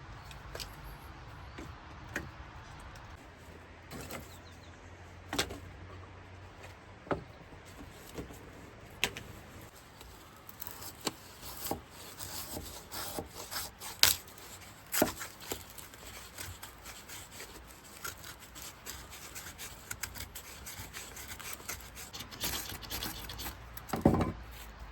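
Irregular small knocks and clicks with rubbing and scraping in between, as of hand work with wood or stone. The knocks come more often in the second half and end in a louder clatter.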